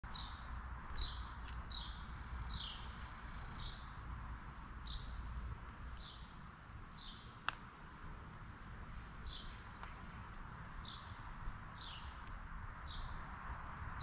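Songbirds chirping: sharp high chirps and softer down-slurred calls repeating throughout, with a buzzy call around two to four seconds in, over a steady background hiss. A single sharp click comes about halfway through.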